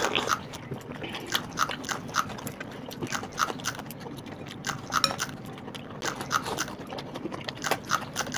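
Two people chewing mouthfuls of paratha, with lip smacks: a run of short, irregular mouth clicks.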